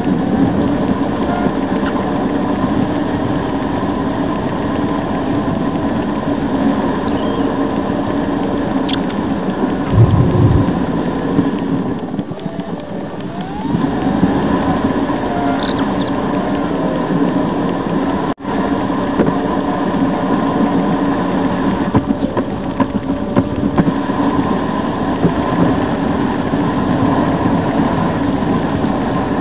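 A car being driven, heard from inside the cabin: a steady engine and road hum with a few brief high squeaks. The sound cuts out suddenly for a moment partway through.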